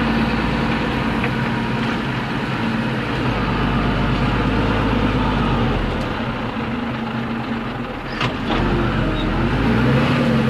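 MTZ-1221 tractor's diesel engine running steadily under load, easing off a little about six seconds in and picking up again near the end, with a single knock a little after eight seconds.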